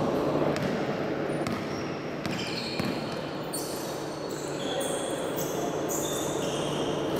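Basketball game in play: a ball bouncing on the court with scattered knocks, over a steady murmur of crowd voices. From about halfway through come many short, high squeaks, typical of shoes on the court floor.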